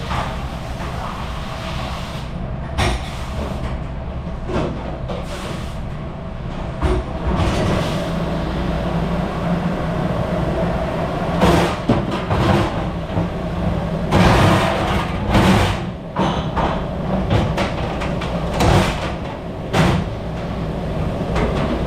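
Commercial dish machine running with a steady drone, while dishes and racks are handled with repeated clatter and sharp clanks that grow busier partway through.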